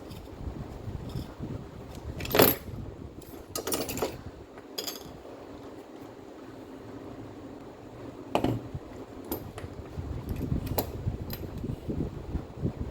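Small metal parts clinking and knocking as they are handled during the repair of an angle grinder: a few sharp clinks, the loudest about two and a half seconds in, another cluster a little later and one more about eight seconds in, over a low steady hum.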